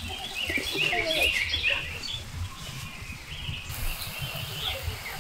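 Birds chirping: quick runs of short repeated notes, busiest in the first half, with a few more calls near the end.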